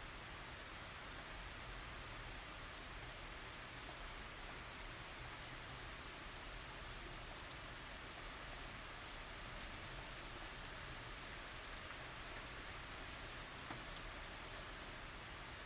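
Steady tropical rain falling, an even hiss with many fine drop ticks, no thunder.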